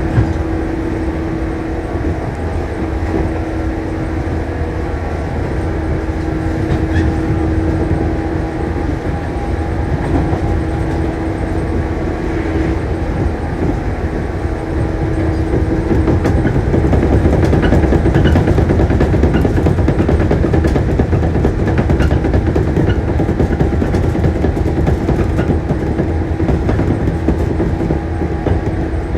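Shinano Railway 115 series electric train running, a steady hum over continuous rail noise, growing louder about halfway through.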